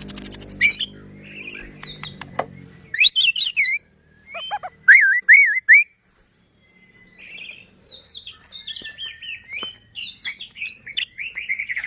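White-rumped shama (murai batu) singing a varied song of rapid high rattling trills, looping whistled phrases and chattering warbles. The song breaks off briefly in the middle.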